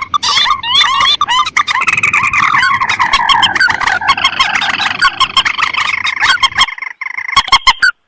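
Playback of a lure recording of rice-field rails (mandar and tikusan): a dense run of rapid, overlapping call notes. It breaks off abruptly near the end, leaving a few short separate notes.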